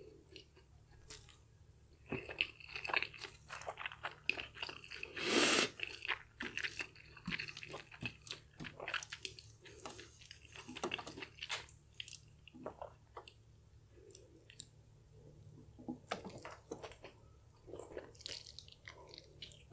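Close-miked, wet, sticky chewing and lip-smacking of a mouthful of black bean sauce noodles, a dense run of irregular clicks and smacks. About five seconds in comes one louder noisy rush lasting about half a second.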